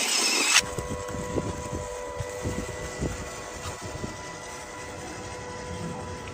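Radio-controlled model Suzuki Gypsy running with a steady motor whine, over low irregular knocks and rumble. A loud hiss in the first half second cuts off abruptly.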